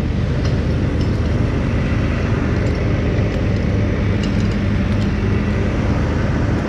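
An engine running steadily at a constant speed, a low even hum with a few faint ticks over it.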